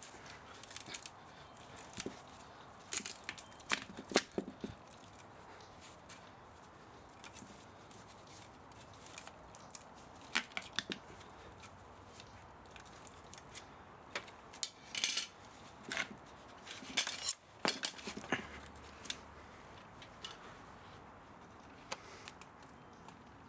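Hand tools working on metal parts of a scrapped electric spa motor: irregular sharp clicks and clinks that come in scattered clusters, the busiest a few seconds in, around ten seconds in, and in the second half.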